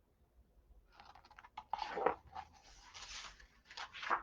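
Irregular rustling and crinkling handling noise close to the microphone, setting in about a second in after a short silence.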